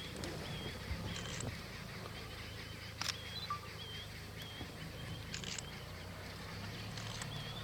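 A small bird repeating a short, slightly curling chirp about twice a second over a low steady hum, with a few brief clicks.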